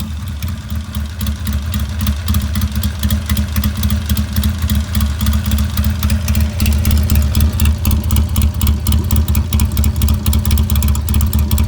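Harley-Davidson Iron 883's air-cooled V-twin running through a Two Brothers Racing Megaphone Gen II two-into-one exhaust, with a steady pulsing exhaust beat that gets a little louder after about two seconds. The engine is untuned and still has its stock air filter.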